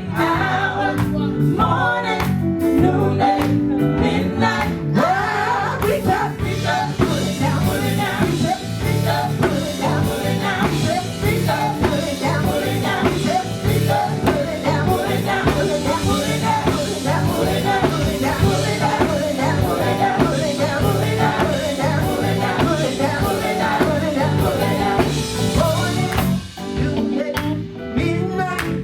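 Live gospel band with electric guitar, bass and drums playing a steady uptempo groove while singers carry the song.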